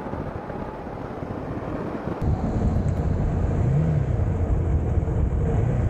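KTM 390 Adventure's single-cylinder engine running while riding, mixed with wind and road rush. About two seconds in, the sound switches abruptly to a louder, lower engine note that rises and falls in pitch as the throttle changes.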